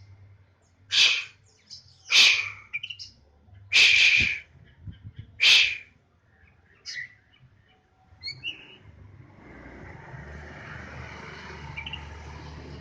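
Caged oriental magpie-robin (kacer) calling: four loud, sharp, harsh notes in the first six seconds, then a few fainter notes. From about nine seconds on, a steady background hiss takes over.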